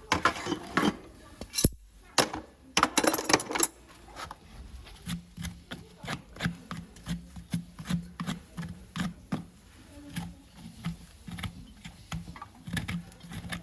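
Farrier's metal tools working on a horse's hoof: a quick run of sharp clicks and scrapes, louder in the first few seconds, then lighter rapid clicking over a low hum.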